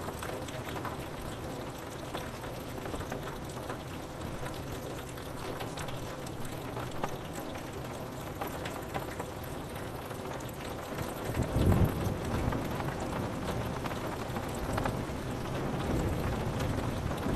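Steady rain falling on window glass, with scattered drop ticks. About twelve seconds in, a low roll of thunder rumbles and swells again near the end.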